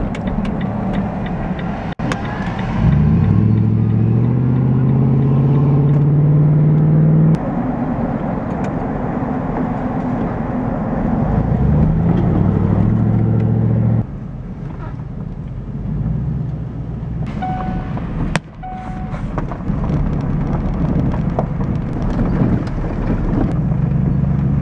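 Stripped-down 1995 Chevy Silverado's engine pulling hard on the road, its pitch climbing for a few seconds, dropping suddenly at a gear change, then climbing again. About halfway through it eases off and runs on at a lower, steady pitch.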